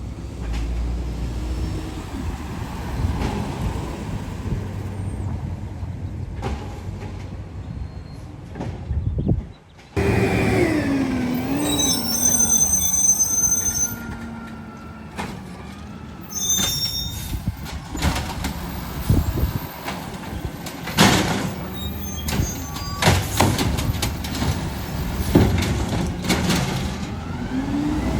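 Garbage truck at work: engine running with a low rumble, a wavering whine for a few seconds about ten seconds in, and a run of sharp bangs in the second half.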